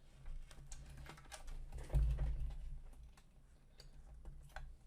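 Small plastic clicks and rustling of wiring as a cable connector is worked into its socket on a Prusa MK3S+ printer's control board, over a steady low hum. A dull low bump stands out about two seconds in.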